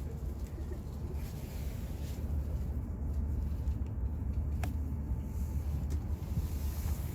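Shinkansen bullet train running at speed, heard from inside the car as a steady low rumble with a faint click about four and a half seconds in.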